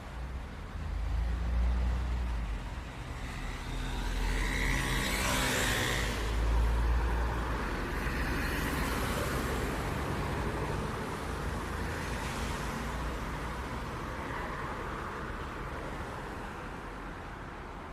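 City street traffic: a steady engine rumble with several vehicles passing close by, one after another, the loudest a few seconds in.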